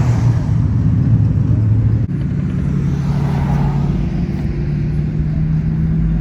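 Classic car engines cruising past at low speed, a deep steady engine note that shifts pitch about two seconds in and climbs slightly near the end.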